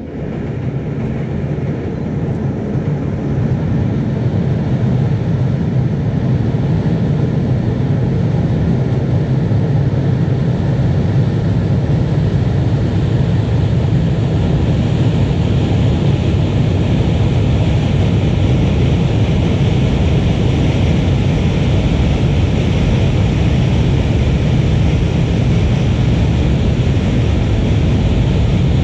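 Metre-gauge train running, a steady heavy rumble that builds over the first few seconds and then holds level.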